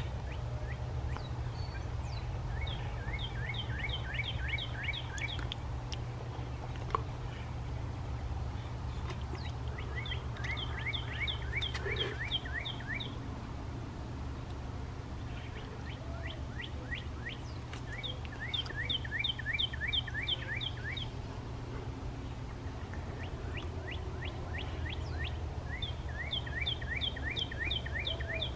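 A bird singing, in several runs of quick, rising notes a few seconds long, repeated every several seconds over a steady low hum.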